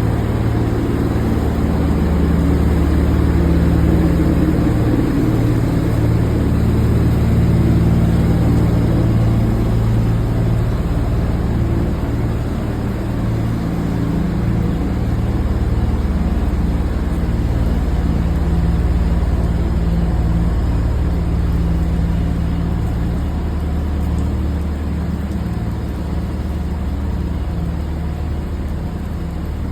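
Motor vehicle engine running steadily: a loud, unbroken low drone.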